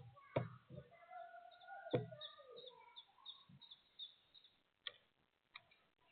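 Wild birds calling and chirping in short whistled notes, some sliding in pitch, with a few scattered sharp taps.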